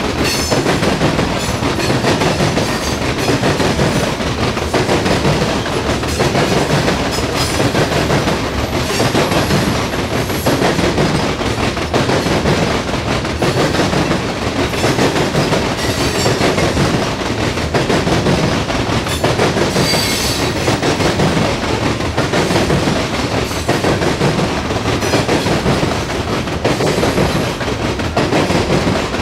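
Rail cars of a CSX coal train rolling past, open-top hoppers on steel wheels: a steady loud rumble on the rails with repeated clacks as wheels pass over rail joints. A few brief high wheel squeals come through.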